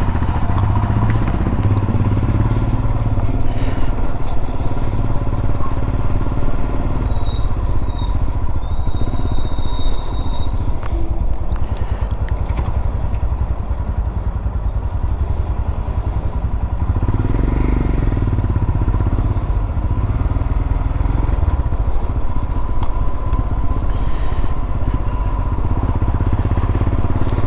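Royal Enfield Himalayan motorcycle's single-cylinder engine running steadily under way, its low engine note dominant.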